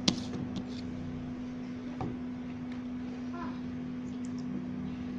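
Room tone with a steady low electrical-sounding hum, a sharp click just after the start and a fainter one about two seconds in, and a brief faint voice near the middle.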